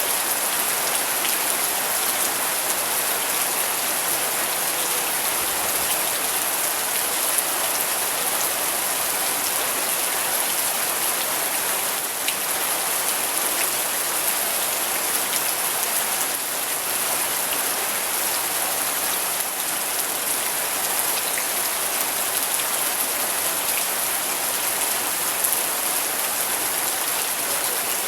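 Steady rain falling, an even hiss with a scattering of individual drops ticking on surfaces.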